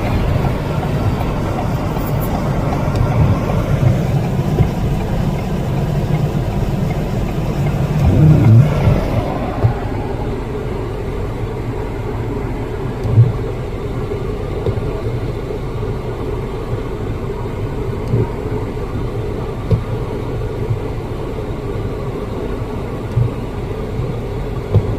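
Car driving, with a steady engine and road rumble and a few short thumps; the sound turns duller about ten seconds in.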